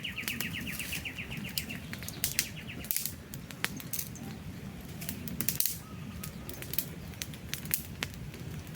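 Wood campfire burning: irregular crackles and sharp pops over a steady low rumble of flames. A rapid high trill runs through the first two and a half seconds, then fades.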